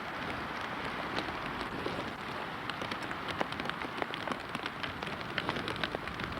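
Heavy rain falling, with many sharp drop hits ticking on a nearby surface.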